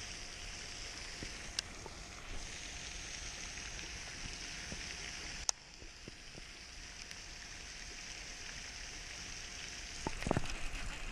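Steady rain-like hiss of falling water and wintry mix, with a couple of sharp clicks and a brief louder rustle and knock near the end.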